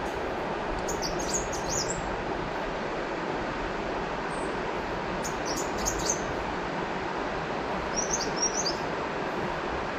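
River water flowing steadily, with small birds chirping in short high twittering bursts three times: about a second in, around five to six seconds, and near eight seconds.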